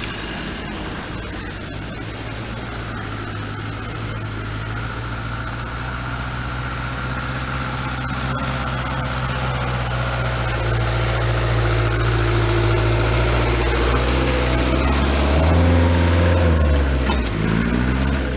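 Land Rover off-roader engines running at low speed, the sound growing steadily louder from about six seconds in. Near the end the engine note dips in pitch and then picks up again.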